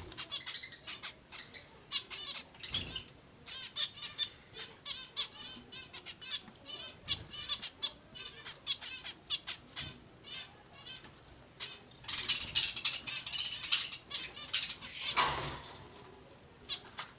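Zebra finch chicks calling while being fed: many short, high chirps repeated all through, thickening into a dense run of calls about twelve seconds in.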